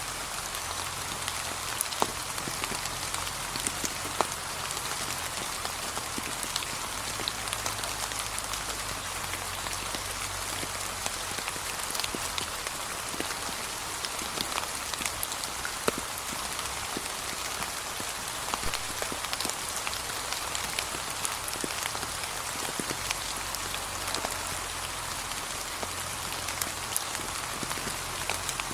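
Steady light rain falling, with many separate drops ticking sharply on top of a continuous patter.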